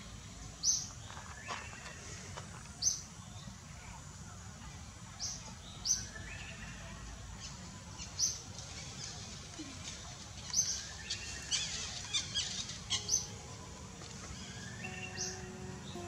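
Outdoor ambience with birds calling: a short high call repeats every two or three seconds, with a quick run of chirps about eleven to thirteen seconds in, over a steady low background noise.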